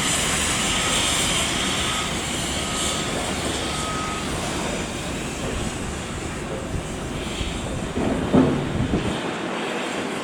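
A train moving through the station: a steady rumble and hiss that slowly fades, with a brief louder pitched sound about eight seconds in.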